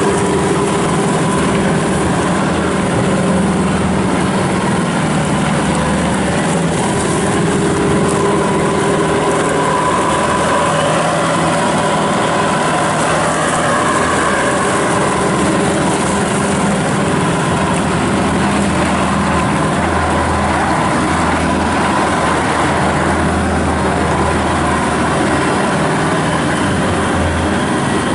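Bobcat S740 skid steer loader's 74 hp turbo diesel engine running steadily as the machine works, its pitch shifting slightly from time to time.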